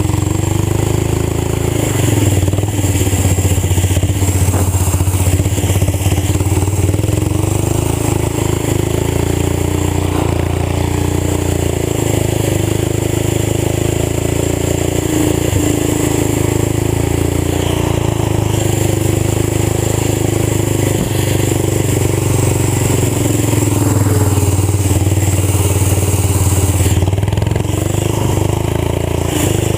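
Old tractor engine running through a fully open exhaust with no muffler, its pitch rising and falling slightly as it is driven, with wind noise over the microphone.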